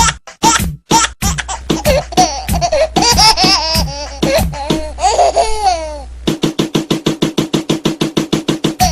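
A baby laughing in choppy bursts of short syllables, warbling up and down in the middle, then breaking into a fast, even run of rapid laughs over the last few seconds.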